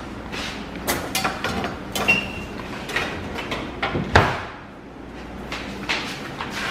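Kitchen handling noises: a run of irregular knocks and clacks, the loudest about four seconds in.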